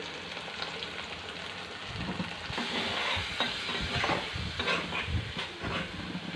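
Onion, tomato, ground spices and ginger-garlic paste sizzling in hot oil in a kadai. About two seconds in a spatula starts stirring the masala, adding repeated scraping strokes against the pan over the frying.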